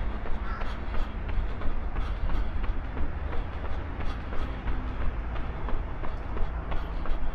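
A runner's footsteps striking the ground about three times a second, over a steady low rumble, picked up by an action camera carried on the run.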